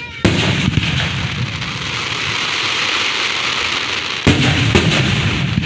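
Fireworks going off close by: a loud bang just after the start, a few sharp cracks and a long crackling hiss, then a second bang about four seconds in with more cracks.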